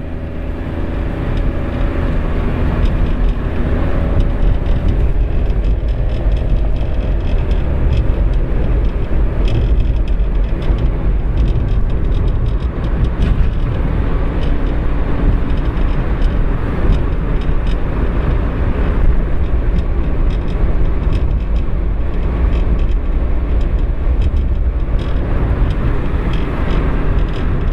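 Mitsubishi i running on the road, heard inside the cabin as a steady low rumble, with a rattle from the instrument panel: frequent short clicks throughout. The rattle is suspected to come from a loose fuse box.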